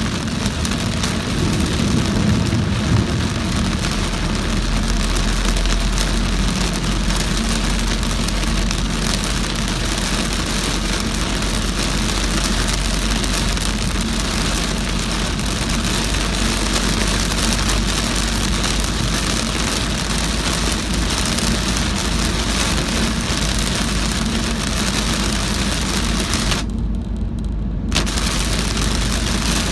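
Very heavy rain beating on a moving car, heard from inside the cabin over steady low engine and road noise. About 27 s in, the rain noise cuts out for about a second, leaving only the low rumble, then comes back.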